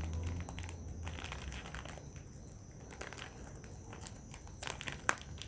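Plastic bag of marshmallows crinkling as it is handled, with a few sharp clicks near the end.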